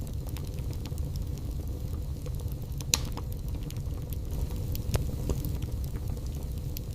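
Wood fire burning in a fireplace: a steady low rumble under frequent small crackles, with a sharper pop about three seconds in and another about five seconds in.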